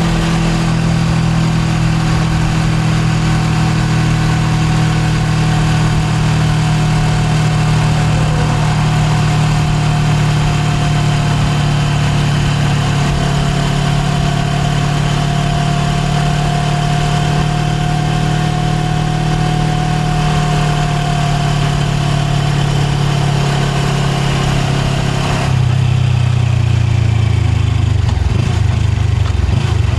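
Suzuki GSX250R's parallel-twin engine running steadily under way, recorded on the bike. About 25 seconds in the note changes abruptly, its higher tones falling away.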